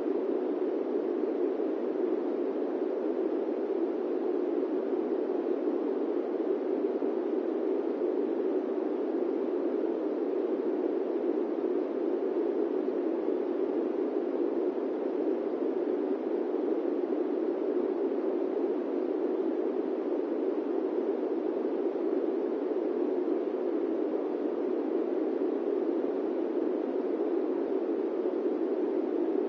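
Steady, unchanging airplane-cabin white noise, a smooth hiss concentrated in the low-mid range with no rumble beneath it.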